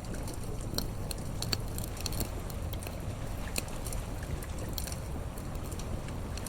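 Campfire crackling with irregular sharp pops and snaps, over a steady low rumble of sea surf.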